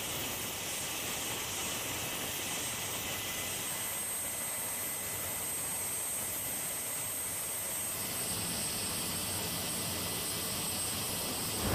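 Steady aircraft turbine noise: an even hiss with a faint constant high whine, with no change in pitch or loudness.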